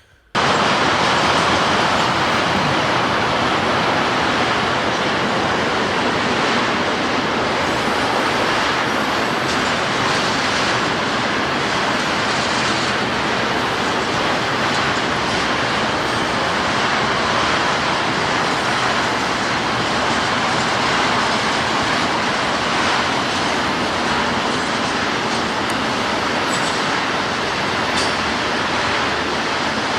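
Union Pacific freight train of auto rack cars passing steadily, a continuous noise of wheels rolling on rail, cutting in abruptly at the start.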